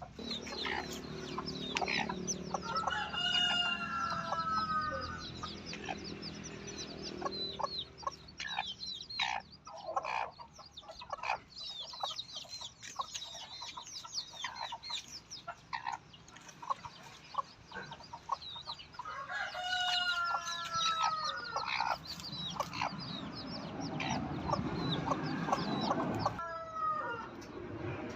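A rooster crowing twice, about three seconds in and again about twenty seconds in, with hens clucking and short calls in between. A low rumble builds near the end.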